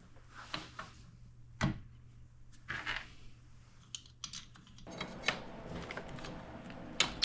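Small metal engine parts and hand tools being handled on a workbench: scattered light clicks and taps, with one louder knock about a second and a half in and a steadier rustle of handling from about five seconds.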